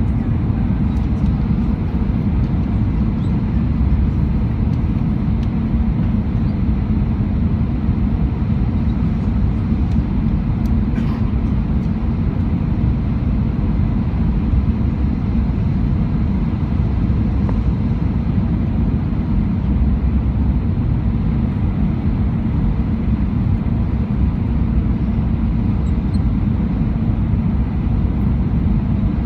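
Steady low rumble inside the cabin of an Airbus A319 airliner in flight: engine and airflow noise heard from a window seat, with faint steady engine whine above it.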